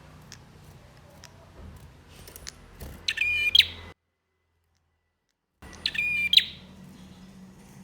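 Male prinia (prenjak) song: two short, loud, rapid stuttering bursts, each ending on a rising note, about three seconds apart, with a few faint chirps around them. Between the bursts the sound drops out to total silence for about a second and a half.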